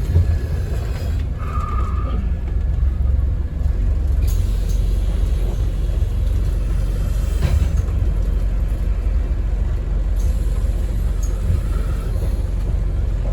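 On-board ride noise of a 2008 Scania N230UD OmniCity double-decker bus under way: a steady low rumble from its engine and the road, with a few short knocks or rattles.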